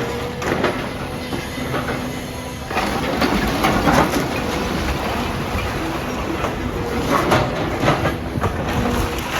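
Demolition machinery breaking down a building: continuous clattering and crunching of concrete and metal, with irregular heavier clanks, louder from about three seconds in, over a faint steady tone.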